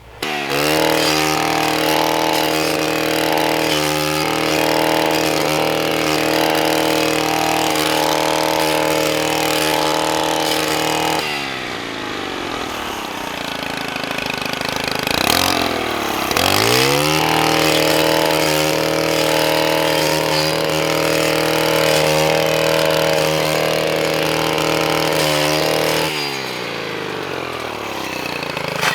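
Small gasoline engine of a handheld power tool running at high revs. It slows down about eleven seconds in, revs back up a few seconds later, and slows again near the end.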